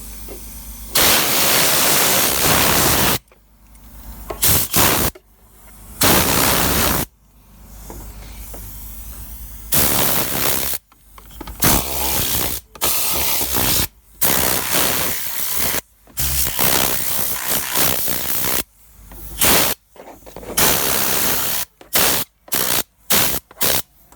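Compressed-air agitating cleaning gun blasting air in on-off bursts as its trigger is pulled and released: blasts of up to about three seconds with short gaps, then a run of quick short blasts near the end.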